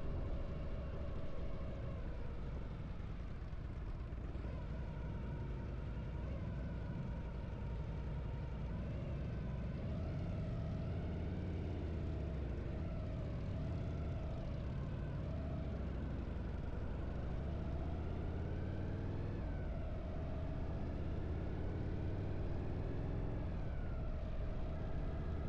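Harley-Davidson V-twin motorcycle engine running on the move, its revs rising and falling several times with throttle and gear changes.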